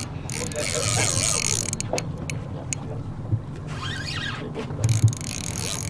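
Boat motor running steadily with a low hum, with two bursts of hissing noise about a second long, one early and one near the end, and a few light clicks.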